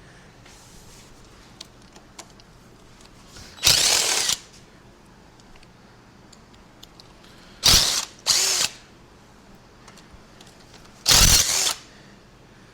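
Cordless power tool, a drill or power ratchet with a socket, run in four short bursts of under a second each, spinning out engine bolts; two of the bursts come close together a little past halfway.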